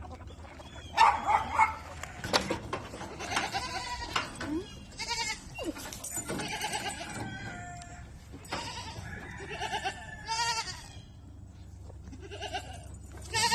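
Goats bleating, about ten calls one after another.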